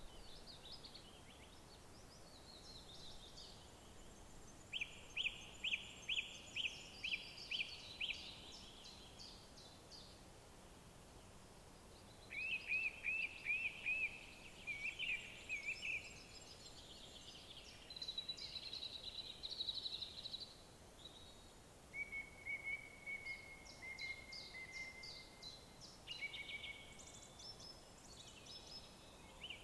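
Songbirds singing in phrases of quick repeated notes, one phrase after another with short pauses between, over a faint steady hiss.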